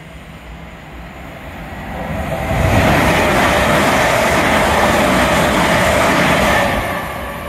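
Heathrow Express Class 387 electric multiple unit passing through the station at speed without stopping: the rush of wheels on rail and air builds over the first two or three seconds, stays loud for about four seconds as the carriages go by, then fades near the end.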